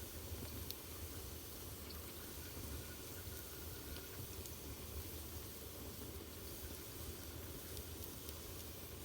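Wood fire burning in a fireplace: a steady low rumble and hiss with a few faint, scattered crackles.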